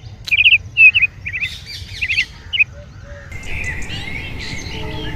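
Peafowl calling: loud, short, high calls in quick clusters over the first few seconds. From about three seconds in they give way to a quieter bed of mixed bird chirps.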